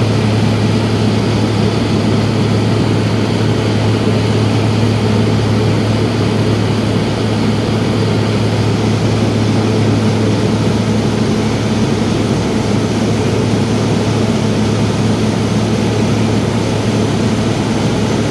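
Small propeller plane's engine and propeller droning steadily in flight, heard from inside the cabin as a constant low hum over rushing noise.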